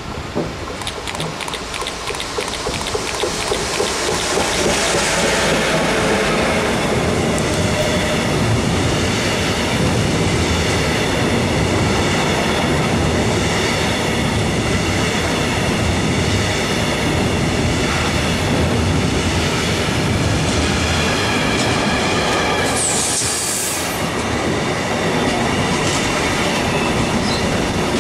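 Electric freight train of pocket wagons loaded with semi-trailers passing close by. The wheels get louder over the first few seconds as the train approaches, then hold a steady rolling noise with clickety-clack over the rail joints and high whining tones from the wheels. A brief very high screech comes near the end.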